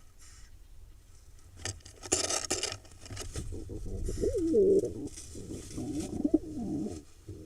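Pigeon cooing in courtship: a run of low, wavering coos that rise and fall in pitch. Before the coos, about two seconds in, there is a short burst of rustling noise.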